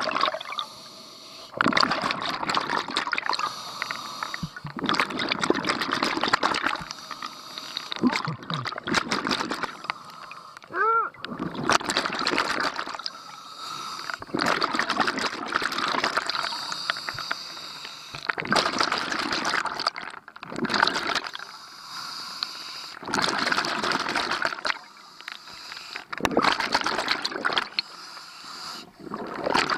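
A scuba diver breathing through a regulator underwater: hissing breaths alternate with gurgling bursts of exhaled bubbles, one every few seconds.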